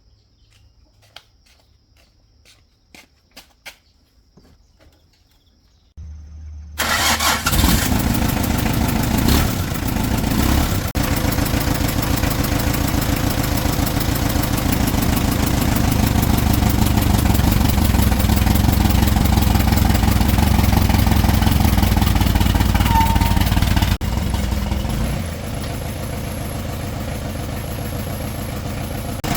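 A few faint clicks, then the box truck's diesel engine starts about six seconds in and runs at a fast idle. Near the end it drops to a lower, quieter idle.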